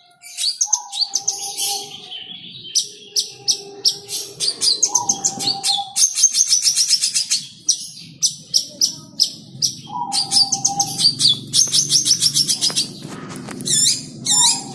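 Cendet (long-tailed shrike) singing in fast runs of sharp, high chirps, up to about ten a second, with short pauses between runs. A lower steady tone sounds on and off beneath it.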